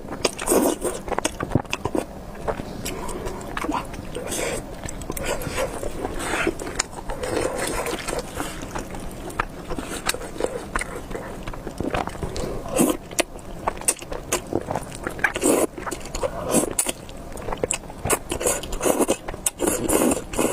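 Close-miked eating of spicy beef noodles: irregular chewing, wet mouth clicks and short slurps.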